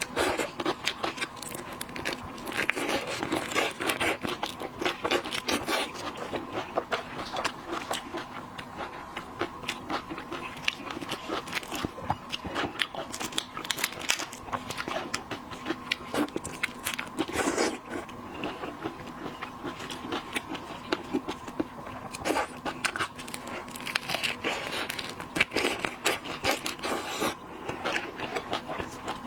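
Close-miked chewing and crunching of seafood, a dense run of irregular small clicks and crackles, with a faint steady hum underneath.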